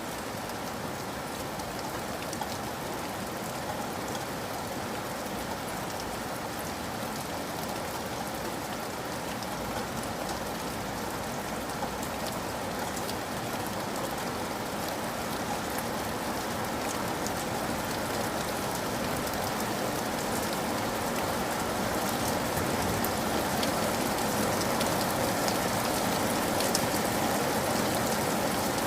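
Steady rain falling, with many individual drops ticking, growing gradually louder.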